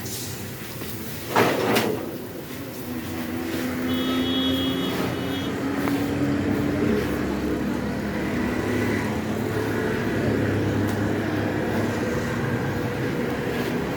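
A loud thud about a second and a half in, like a vehicle door shutting, then a vehicle engine running and pulling away, its pitch rising a few seconds in, with a short high beep around the same time.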